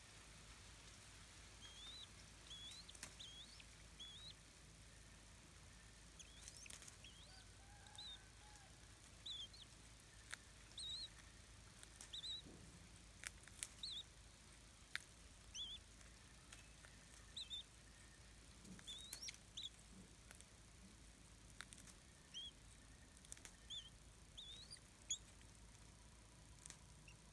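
Faint, high, short bird chirps repeating every second or so, with a few sharp clicks in between.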